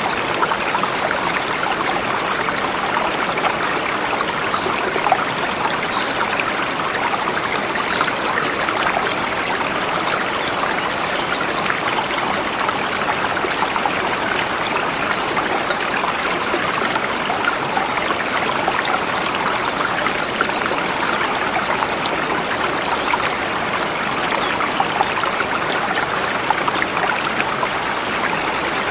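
Forest river flowing over rocks, a steady, even rush of water.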